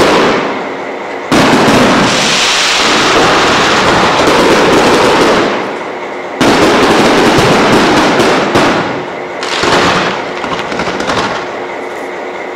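Fireworks going off: dense rapid crackling and popping. Loud volleys start sharply about a second in and again just past six seconds, then ease off over the last few seconds.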